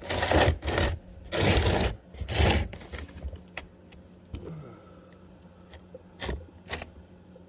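Oil drain pan scraped along the floor in three short pushes, followed by a few light clicks and knocks.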